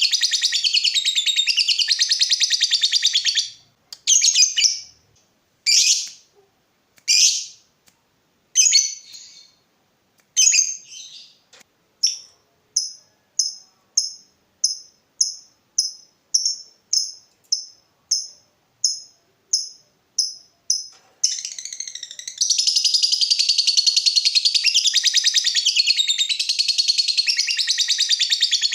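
Lovebird singing: a fast, high, continuous chatter breaks into a few separate calls. It then gives a run of short, sharp chips at about two a second, and about 22 seconds in the fast chatter resumes.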